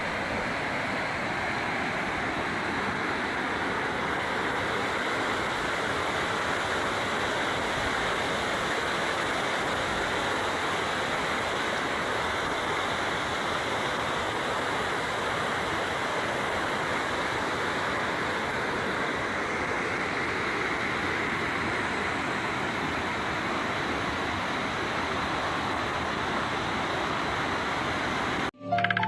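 Heavy rain pouring down as a steady, even hiss. It cuts off abruptly near the end, where music starts.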